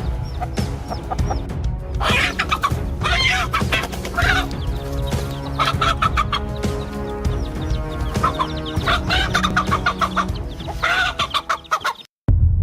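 Chickens clucking and calling repeatedly over background music. Everything cuts off suddenly near the end, giving way to a low throbbing hum.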